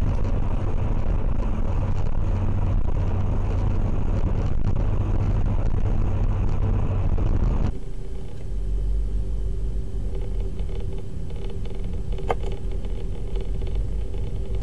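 Steady engine and road noise of a car driving. About eight seconds in it cuts to a slightly quieter stretch of similar driving noise with a steady hum.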